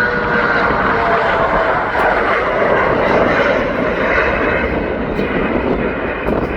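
Passenger aircraft engines running loud and steady as an airliner passes close by. A faint whine dips slightly in pitch during the first couple of seconds.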